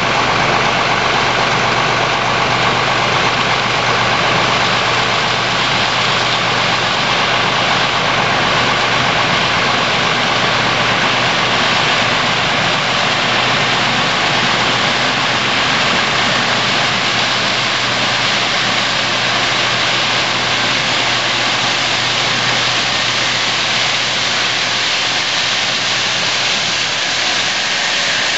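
Case IH Axial-Flow combine harvester running steadily while harvesting corn: a constant engine hum with steady tones under a dense, even rush of threshing and machine noise.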